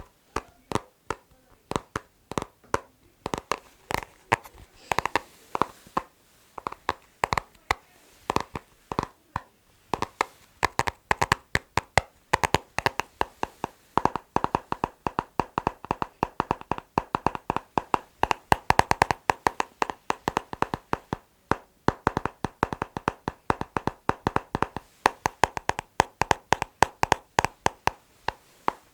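Fingers tapping rhythmically on a hard object that rings slightly. The taps are sparse at first and grow into a fast, dense patter about a third of the way in, with a couple of brief pauses.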